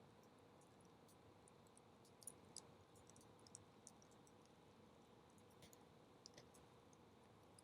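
Wood bonfire burning low and crackling faintly over a soft hiss, with scattered sharp little pops at irregular intervals.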